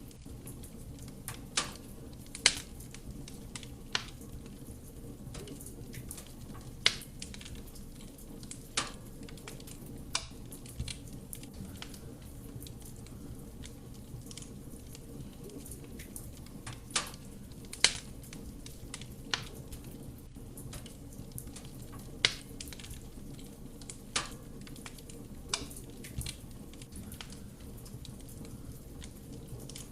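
Wood fire burning in a fireplace: a steady low rumble of flame under irregular sharp crackles and pops from the burning logs, about a dozen in the stretch, some much louder than others.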